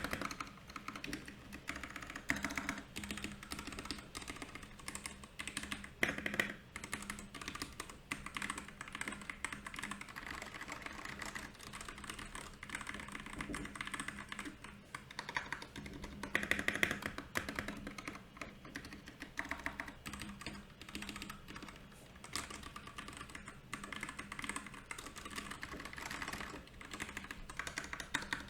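Fast, continuous typing on a Royal Kludge RK68 mechanical keyboard: a dense run of key clicks and clacks, with a few louder flurries of keystrokes.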